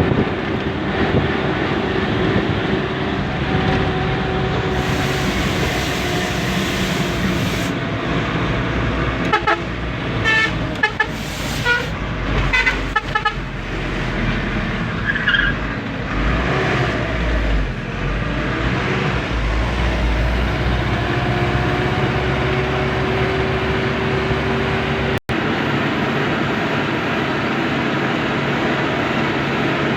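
Truck engine running steadily on the road, with a cluster of short horn toots in the middle of the stretch and a brief dropout in the sound a little over 25 seconds in.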